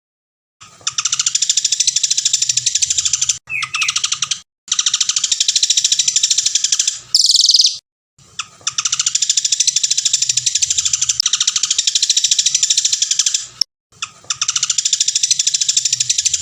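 Songbird singing long, very rapid trills in phrases of a few seconds with short pauses between. Several phrases end in a brief, higher, brighter burst.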